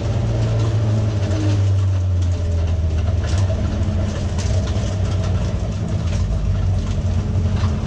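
Folkrace car's engine heard from inside the stripped cabin, running at low, steady revs, with scattered short clicks and rattles from the car.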